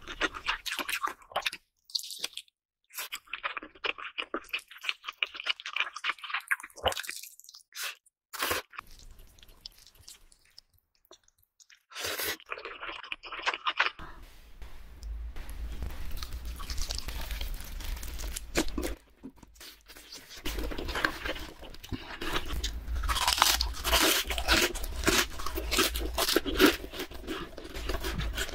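Close-miked crunching and chewing of sauced fried chicken. Sparse crisp crunches with a near-quiet pause come first, then about halfway a denser, continuous run of crunching over a low hum.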